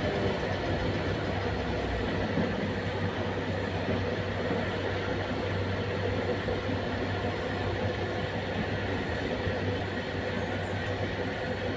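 Heavy diesel engine running steadily with a low hum, unchanging throughout.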